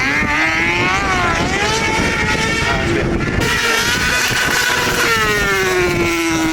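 Motorcycle engine revving, its pitch rising and falling repeatedly, then from about five seconds in a long, smooth fall in pitch.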